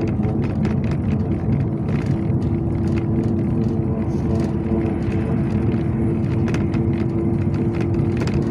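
Interior noise of a Yutong ZK6118HGA city bus under way: a steady engine and road drone with a held tone, and frequent small rattles and clicks from the body and fittings.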